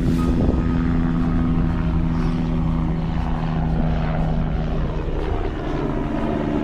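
Radio-controlled scale helicopter flying: the electric motor's steady hum and the rotor blades' low chop, holding an even speed.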